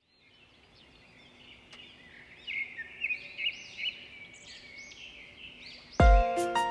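A chorus of small birds chirping, fading in from silence over the first seconds. About six seconds in, music starts with a loud struck chord.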